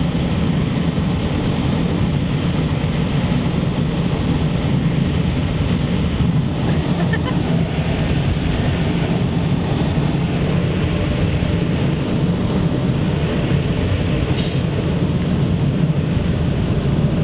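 Automatic car wash dryer blowers running, a steady loud rush of air heard from inside the truck's cab.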